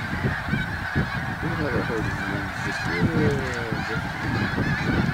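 A large flock of snow geese calling all at once: a dense, unbroken din of many overlapping calls, with single nearer calls standing out now and then.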